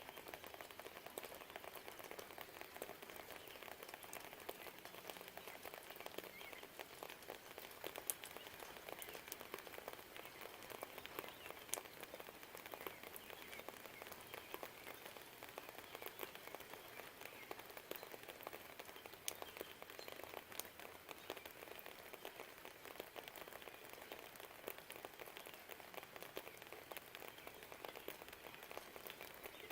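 Steady rain falling, with a dense patter of small drop ticks and a few sharper drips standing out.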